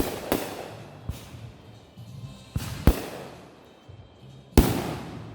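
Consumer fireworks exploding in a backyard show: about half a dozen sharp bangs with echoing tails, the loudest right at the start and again near the end, over background music.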